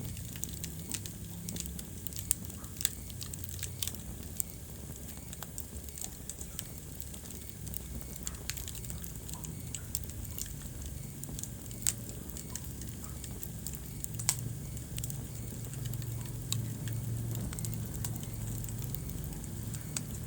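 Wood fire burning in a fireplace: irregular crackling with sharp pops, a few louder than the rest, over a low steady rumble of the flames.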